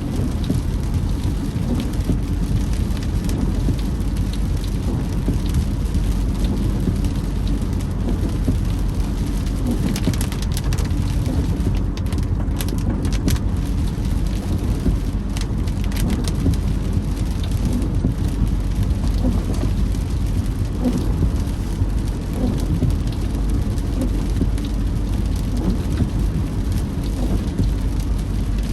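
Rain falling on a moving car, heard from inside with the steady low rumble of the road and engine underneath; the sound stays even throughout.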